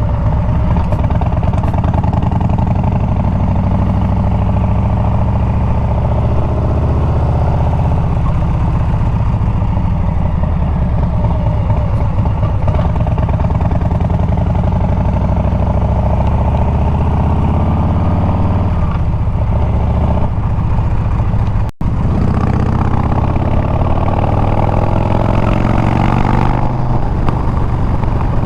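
Harley-Davidson Milwaukee-Eight 114 V-twin running loud through a Bassani exhaust while the motorcycle is ridden, its pitch rising and falling as the rider rolls the throttle on and off. The sound cuts out for an instant about two-thirds of the way through.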